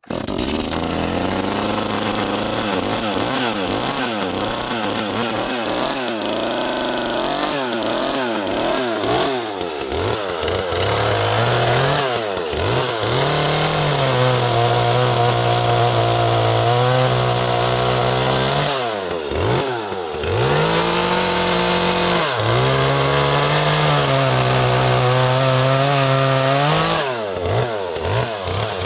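Echo CS-310 small two-stroke chainsaw running at full throttle while cutting oak rounds. Its pitch sags under load and climbs back several times as the chain bites and frees up.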